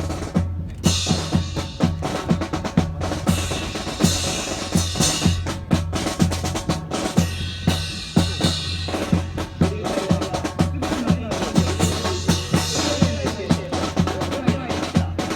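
Drum-led percussion music with a fast, steady beat of sharp clicks over a low sustained bass tone.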